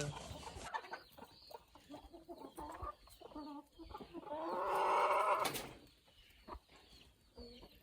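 Chickens clucking, with one longer, louder call about halfway through.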